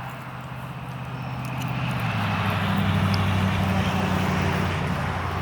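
A motor vehicle's engine passing by, growing louder to a peak about three seconds in, then easing off; its hum drops slightly in pitch partway through.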